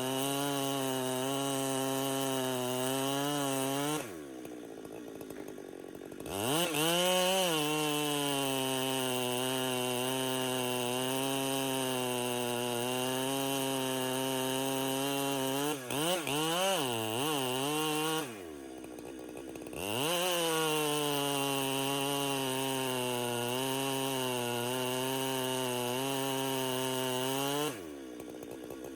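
Chainsaw running at high revs with its pitch wavering under load, as when cutting wood. Three times it drops back to idle for a second or two and then revs back up.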